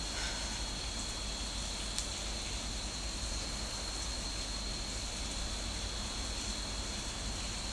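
Heavy rain falling steadily, heard from indoors as an even hiss, with a single faint click about two seconds in.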